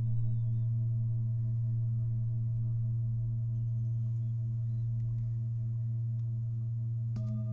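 Singing bowls ringing: a deep, sustained hum with a slow pulsing wobble. Near the end another bowl is struck, adding a brighter set of tones.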